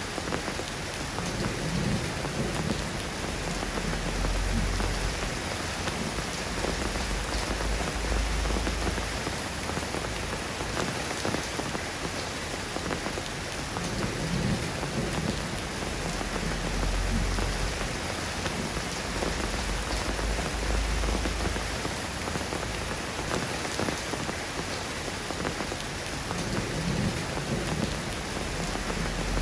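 Soft rain falling steadily, a dense even patter, with low rumbles of thunder swelling up a few times.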